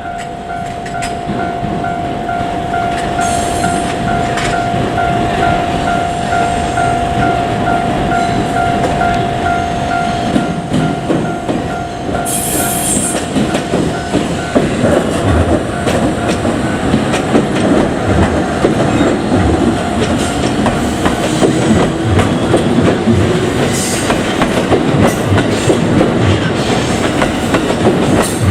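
A level-crossing alarm rings steadily for the first half. Then a JR Kyushu 787-series electric train passes, its rumble growing louder, with the rhythmic clickety-clack of wheels over rail joints and brief higher hissy bursts.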